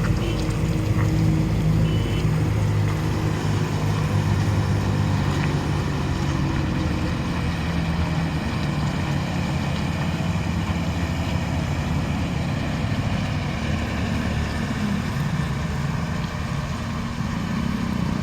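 Large multi-axle truck's diesel engine running under load with a steady low drone, the truck struggling to get round a ghat road turn.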